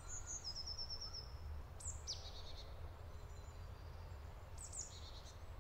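Small songbirds singing in a forest: high, thin calls, a short trill of quick repeated notes and a few downward-sweeping notes, over a steady low background rumble.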